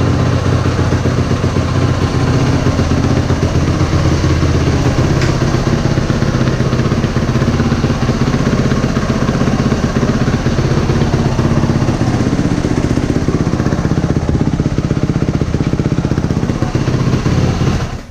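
Motorcycle engine running steadily at a low, even speed with rapid firing pulses, then cutting off abruptly near the end.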